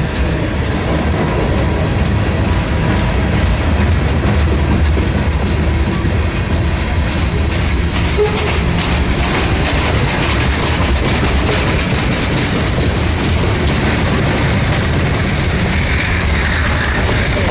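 Loaded and empty freight cars of a passing train rolling by: a steady heavy rumble of steel wheels on the rails. The wheels clickety-clack over the rail joints, most plainly in the middle.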